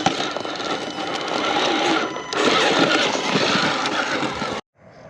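A 1/10-scale RC rock crawler's electric motor and gear drivetrain running as it crawls over rock. The gritty mechanical noise grows louder about halfway through, then cuts off suddenly near the end.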